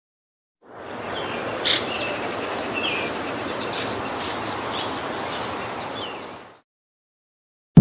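Birds chirping and whistling over a steady hiss of outdoor ambience. It fades in about a second in and cuts off suddenly about a second before the end.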